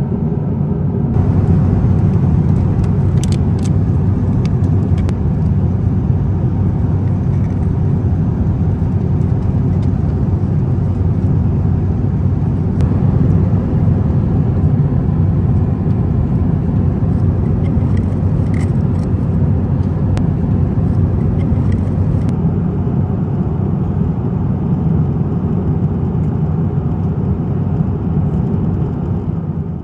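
Steady cabin noise inside an Airbus A350-900: a deep, even rumble of engines and airflow, with a few faint light clicks or rattles now and then.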